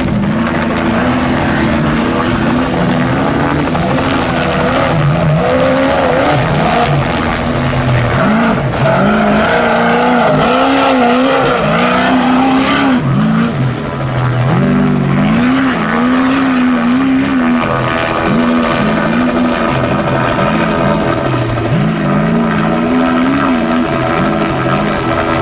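A Trophy Truck's race engine revving hard, its pitch climbing and dropping over and over as the throttle is worked on and off over rough desert ground.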